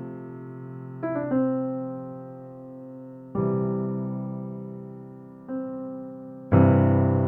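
Slow, soft piano background music: sustained chords struck every second or two and left to fade.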